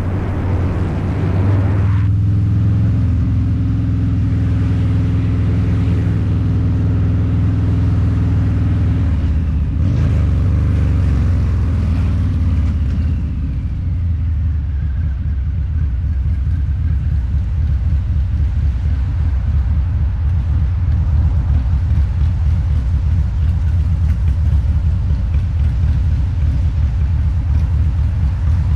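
A Harley-Davidson Low Rider's 129 cubic inch V-twin running through a Two Brothers Racing exhaust while riding. The throttle comes off abruptly about two seconds in. The engine then holds a steady rumble, shifts down in pitch about ten seconds in, and the rumble grows a little louder toward the end.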